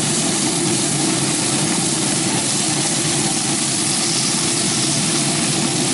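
A steady mechanical drone with an even hiss above it, holding the same level throughout.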